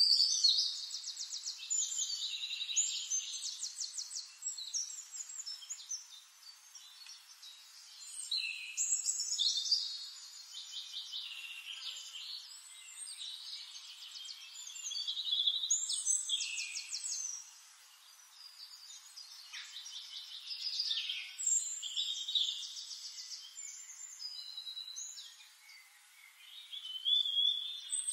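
Birdsong: a songbird singing high-pitched phrases of rapid trills and chirps, one every few seconds with short pauses between them.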